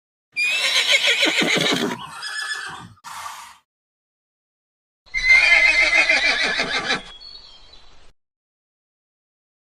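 Two separate horse whinnies, each about a second and a half long with a wavering pitch, each followed by softer trailing sounds; the clips start and stop abruptly with silence between them.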